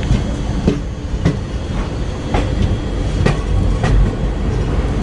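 Passenger train running, heard from aboard: a steady rumble of the coaches with the wheels clacking over rail joints in sharp, unevenly spaced clicks.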